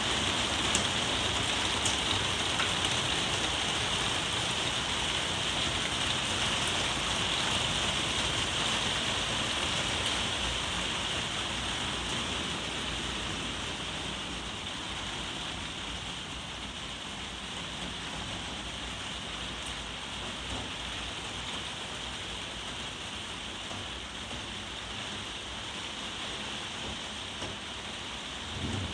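Heavy rain falling steadily, heard from inside a conservatory. It eases a little after about twelve seconds.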